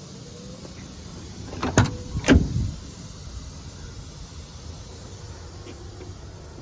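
Two loud knocks about half a second apart as the truck's cab door is opened.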